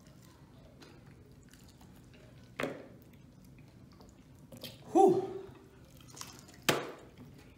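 People chewing and biting into sauce-coated chicken wings, with two sharp clicks, about two and a half and six and a half seconds in. About five seconds in, one eater gives a short, loud hum that falls in pitch.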